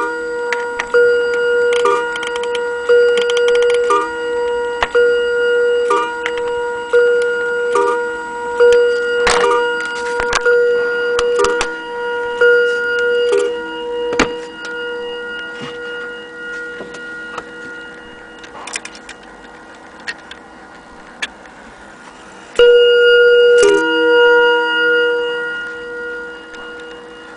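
Antique Junghans mantel clock striking: a run of ringing strikes about once a second that fades over the first half, then after a pause a loud new strike about 23 seconds in that rings on and dies away.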